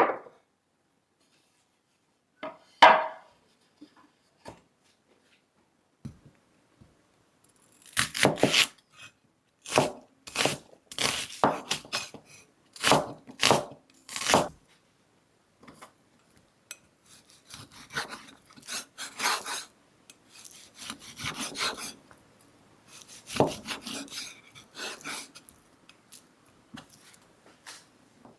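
Kitchen knife slicing through food on a wooden cutting board: a run of short rasping strokes, some in quick succession, stopping and starting again, with a single knock about three seconds in.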